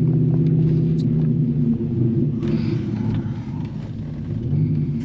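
2006 Dodge Ram SRT-10's 8.3-litre V10 engine running through an aftermarket exhaust as the truck pulls away in first gear, a low, steady engine note. It eases off slightly past the middle and picks up again near the end.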